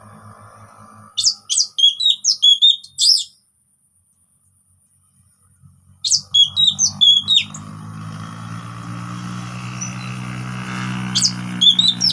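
Orange-headed thrush singing in short bursts of quick, high whistled phrases, with a gap of a couple of seconds between bursts. A low steady hum comes in after about seven and a half seconds under the later phrases.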